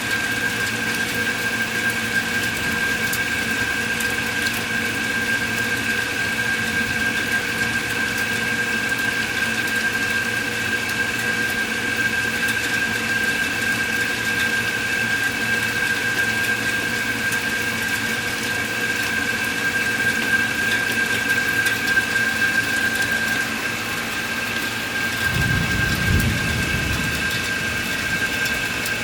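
Steady rain during a thunderstorm, with a steady high-pitched drone throughout and a low rumble of distant thunder about twenty-five seconds in.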